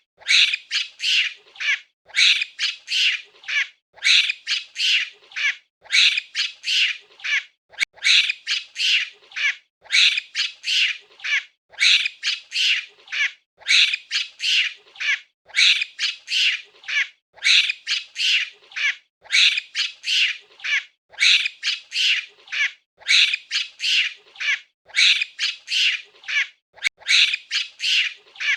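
Monkey giving shrill, rapid chattering calls in bouts of four or five, the bouts repeating about every two seconds.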